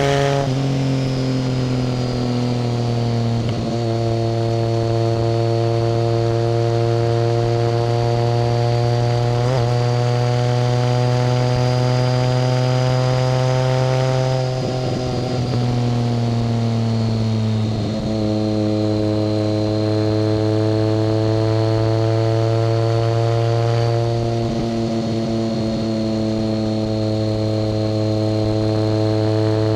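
BMW K75 motorcycle's inline three-cylinder engine running steadily under way, with short dips and a few steps down in pitch where the throttle eases off. A thin high whine runs above the engine note.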